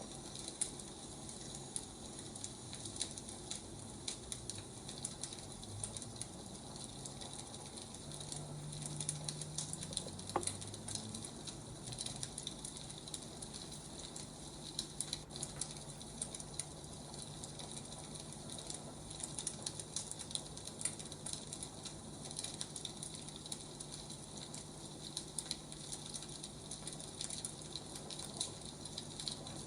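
Wood fire crackling: a soft steady hiss with irregular small crackles and pops.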